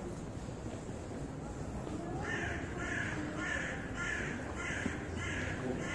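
A bird calling over and over, a quick run of about seven short calls, beginning about two seconds in, over a steady background of street noise.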